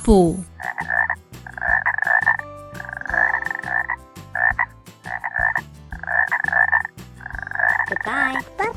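Frog croaking: about seven croaks in a row, roughly one a second.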